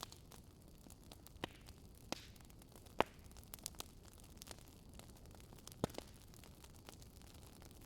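Wood fire crackling: a faint steady hiss broken by scattered sharp pops, the loudest about three seconds in and another near six seconds.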